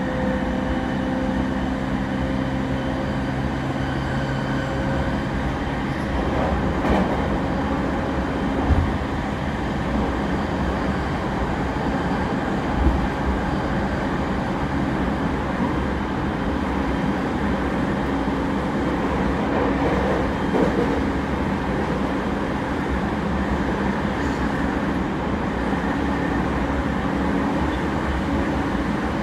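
Running noise inside an E231 series commuter train car at speed: a steady rumble of wheels on rail with flat, steady humming tones that fade about five seconds in. A few short thumps come at about 7, 9 and 13 seconds.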